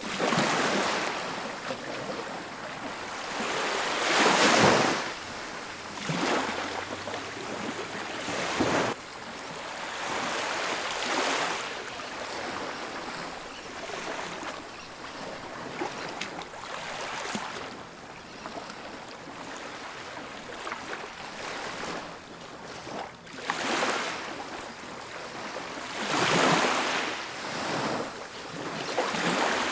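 Ocean waves breaking and washing on a beach, in surges every few seconds, a few of them clearly louder.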